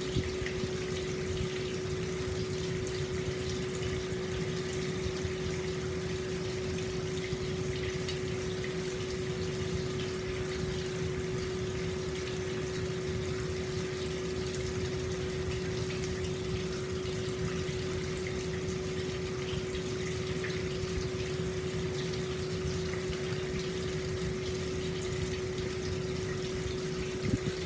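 Hot-spring water pouring steadily into an open-air stone bath, with a splashing, gushing flow and a steady low hum-like tone running under it.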